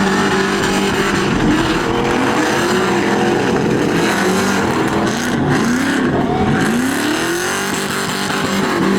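Several truck engines revving, their pitch climbing and falling again and again and overlapping one another.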